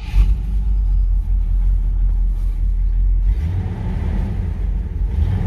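1959 Cadillac DeVille's 390 V8 just fired up and idling with a steady low purr.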